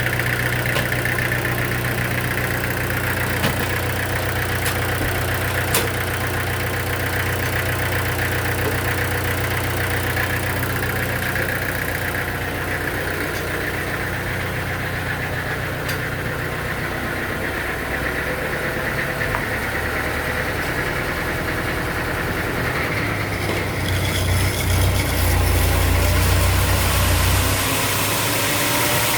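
An engine running steadily at idle, with a few faint clicks over it. About four-fifths of the way through it grows louder and deeper for a few seconds, then settles back.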